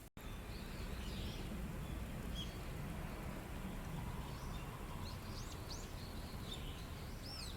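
A small stream babbling steadily, with songbirds chirping over it and several quick rising-and-falling whistles near the end.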